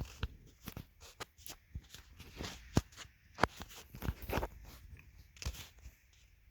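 Toys being handled and moved about: irregular clicks, knocks and light rustling, with a few sharper taps in the middle.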